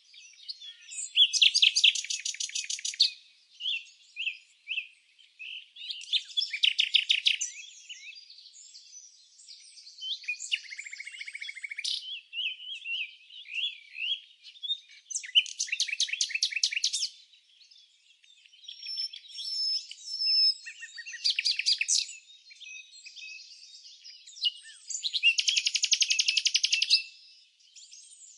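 Songbirds singing and chirping. A loud, fast trill of rapidly repeated notes lasting about two seconds comes five times, with scattered short chirps and whistled notes in between.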